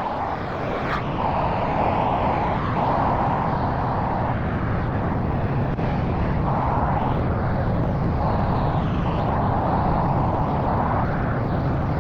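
Pressure washer running steadily, its engine droning under the hiss of the high-pressure spray, which swells and eases every few seconds as the spray moves across the surface.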